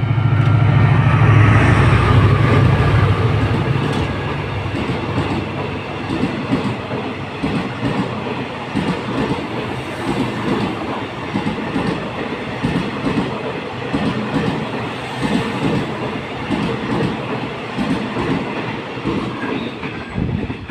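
A Thai railways QSY-class diesel-electric locomotive passing close by, its engine drone loudest about two seconds in, followed by the passenger coaches' wheels clicking in a steady rhythm over the rail joints as the train runs through the station.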